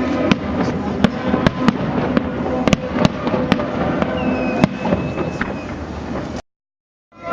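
Fireworks exploding in quick succession, a stream of sharp cracks and pops over a continuous rumble. The sound cuts out completely for under a second near the end.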